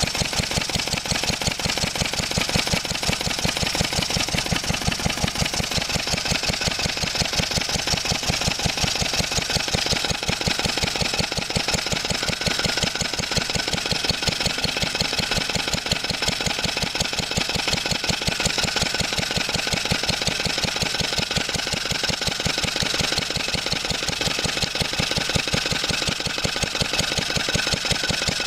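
1954 Wolseley WD8 stationary engine running steadily off load, an even beat with no misfiring, its timing freshly reset. A light tapping runs through it, which the owner puts down to the back plate not being done up.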